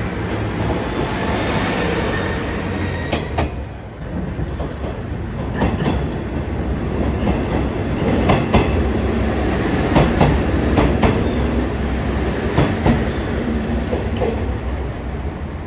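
JR Shikoku 1500 series diesel railcar running, its wheels clacking over rail joints in an uneven series of sharp knocks over steady running noise.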